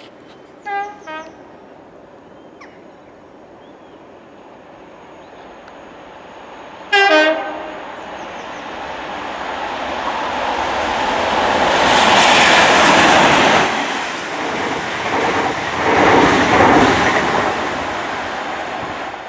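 Class 37 diesel locomotive hauling a dead electric multiple unit past the lineside. A short horn sounds about a second in and a loud horn blast about seven seconds in, then the rumble of engine and wheels builds to a loud pass, with a second surge a few seconds later as the hauled unit's coaches go by.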